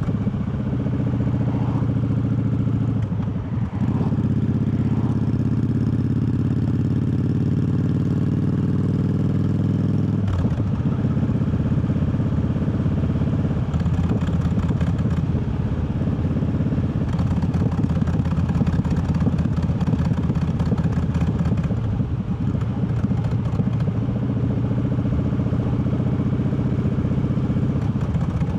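Triumph Bobber's parallel-twin engine running under way, its note climbing slightly and breaking briefly about three and a half seconds in and again about ten seconds in as it changes gear, then running on steadily with a rougher, noisier sound.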